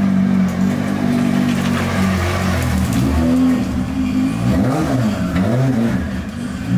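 Turbocharged drift car engine idling, then revved in a run of throttle blips, its pitch swinging up and down several times, before settling back to idle near the end.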